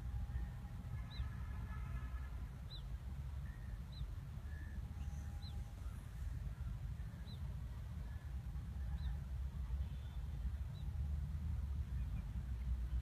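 A bird repeats a short, high, downward chirp about every second and a half over a low steady rumble of wind on the microphone.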